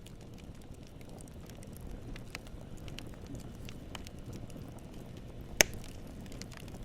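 Wood fire crackling: a steady low rumble with scattered small snaps, and one sharp, loud pop of burning wood a little over five seconds in.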